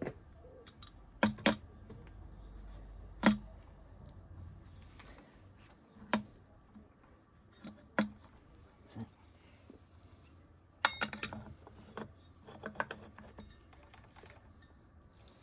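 Small metal engine parts and hand tools clinking and knocking as they are handled and set down, a dozen or so separate sharp clicks with a quick cluster about eleven seconds in.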